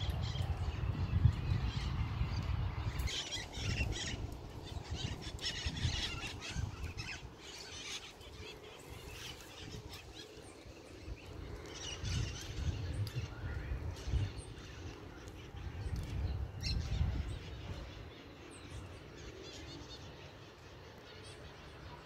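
Small birds chirping in quick runs of short calls, with bursts of low rumble near the start and again in the middle.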